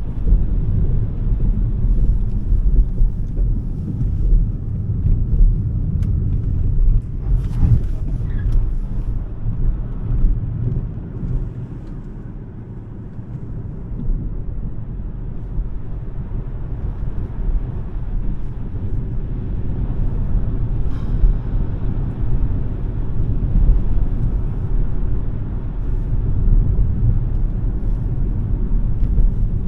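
Road and tyre rumble of a Smart #3 electric car on the move, a steady deep noise that eases off for a couple of seconds midway and then builds again.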